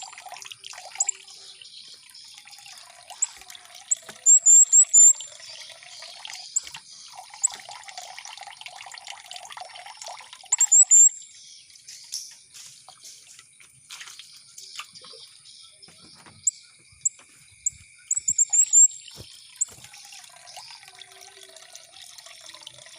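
Trickling, dripping water with a small songbird, the mantenan, cutting in with very short, sharp, high chirps in quick runs of three to five, several times over. The chirps are the loudest sound.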